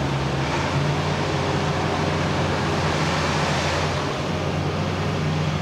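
Heavy demolition equipment's diesel engine running steadily, a constant low hum under a broad noise.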